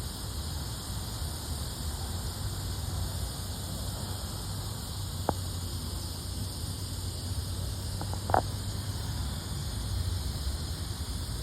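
Steady outdoor insect chorus, a high hiss in several bands over a low rumble, with two short clicks about five and eight seconds in.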